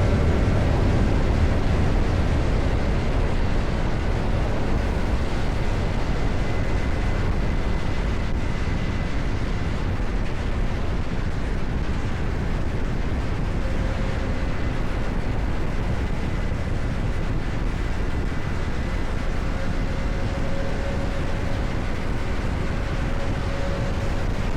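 CFMOTO 675NK motorcycle's inline-three engine running steadily on the road, mixed with wind rushing over the camera microphone.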